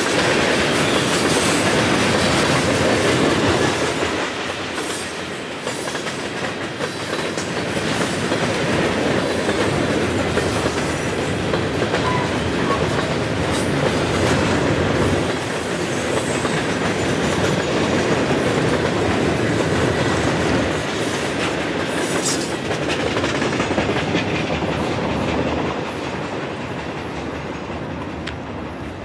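Gondola cars of a Norfolk Southern freight train rolling past at close range on steel wheels. It is a steady, loud rail noise that dies away near the end as the last car goes by.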